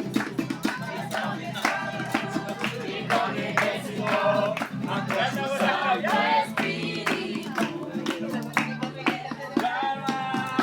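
A group singing a praise song together, with steady rhythmic hand clapping.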